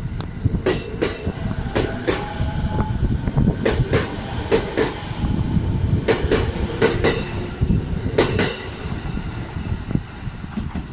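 Passenger train running along the track: a steady rumble with sharp clicks, several in close pairs, as the wheels pass over rail joints.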